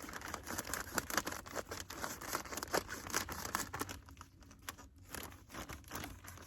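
Plastic bag of cow manure crinkling and crackling as it is handled and torn open. The crackle is dense for about four seconds, then thins out.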